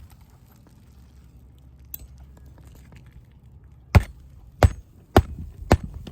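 Four sharp hammer strikes about half a second apart, driving roofing nails to fasten an asphalt shingle back in place.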